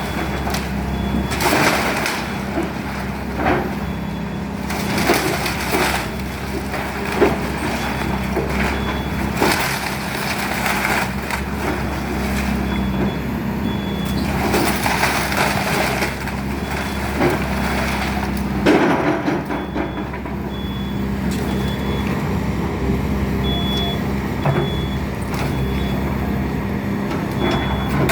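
Excavator's diesel engine running steadily while a house is torn down, with repeated cracking and crunching of breaking debris. A high reverse or travel alarm beeps at intervals through the middle and second half.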